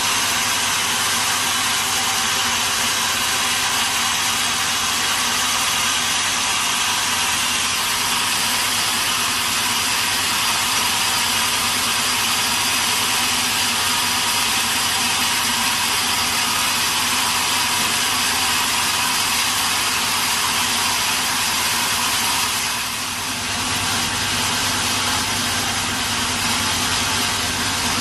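Sawmill machinery running steadily, a constant low hum under a loud high hiss, with a brief dip in level about three-quarters of the way through.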